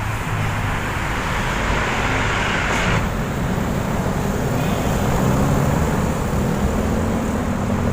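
Steady road traffic: motor vehicles running close by with a low engine hum and tyre hiss, a louder hiss cutting off about three seconds in.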